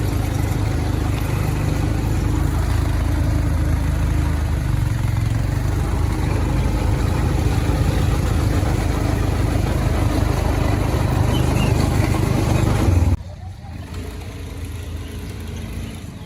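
Quad bike engine running steadily as the bike is ridden, with a loud low rumble. About three seconds before the end it cuts off suddenly to a quieter engine-and-road sound.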